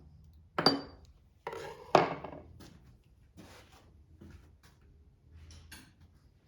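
Metal tools and engine parts handled on a workbench while a Kohler small engine is taken apart. Two sharp clanks, the first with a brief ring, come about half a second and two seconds in, followed by lighter clicks and scraping.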